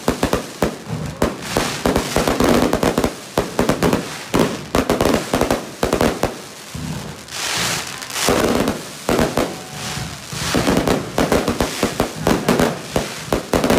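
Aerial fireworks display in a dense barrage: a rapid, unbroken run of bangs and crackling from many shells bursting at once, with brief hissing swells mixed in.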